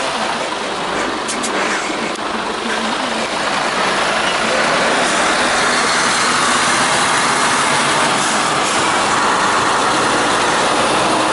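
Steady motor vehicle engine noise, likely a truck running, with faint voices mixed in; it gets slightly louder about four seconds in.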